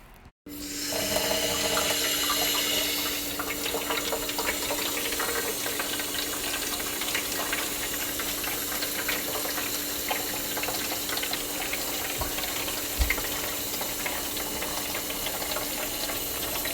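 Water running steadily into a small plastic aquarium tank, filling it, with a steady low hum underneath. It starts abruptly about half a second in.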